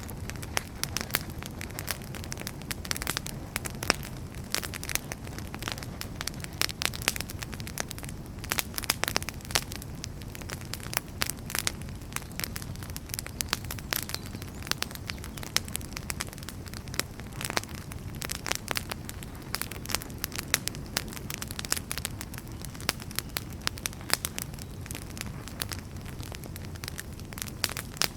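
Wood fire burning, with a steady low rumble of flames and frequent irregular crackles and pops from the burning firewood.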